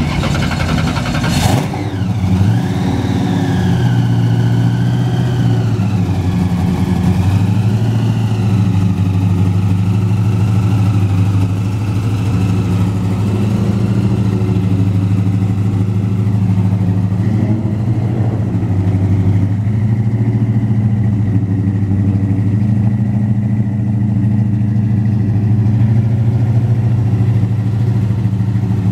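Supercharged V8 of an orange Dodge Charger 'General Lee' replica idling with a steady low rumble. A sharp click comes about a second and a half in, and a high whine wavers up and down over the first several seconds.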